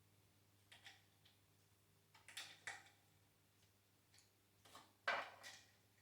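Faint clicks and light knocks in three short clusters over a faint steady hum: engine parts being handled and set down on a workbench during assembly.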